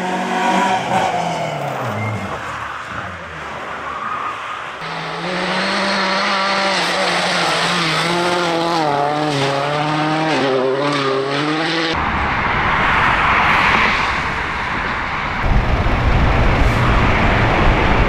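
Car engines revving with a wavering, gliding pitch and tires squealing. The sound changes abruptly about 5, 12 and 15 seconds in, each time to different road noise.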